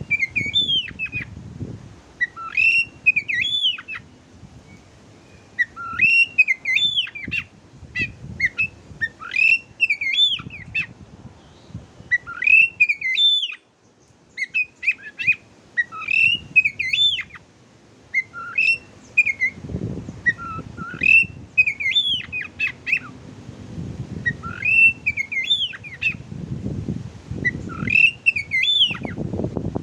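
Oriental magpie-robin (kacer) song: short whistled phrases of rising and falling notes mixed with sharp chips, repeated every two to three seconds.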